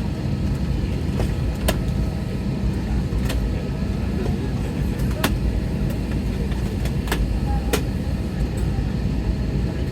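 Steady low rumble inside an airliner cabin on the ground before take-off, with a few sharp clicks scattered through it.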